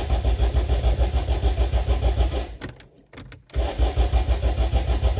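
Renault 5's carbureted C2J four-cylinder engine being cranked by the starter in a −9 °C cold start, a rapid even chugging that never catches. It comes in two bursts with a pause of about a second in the middle. The engine will not start after sitting for weeks in the cold.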